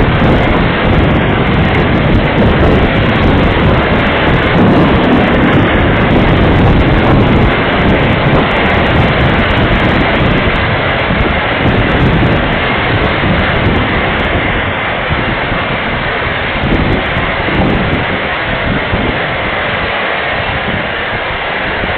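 Storm wind blowing hard in gusts, a loud continuous rush with heavy wind buffeting on the microphone, easing a little in the second half.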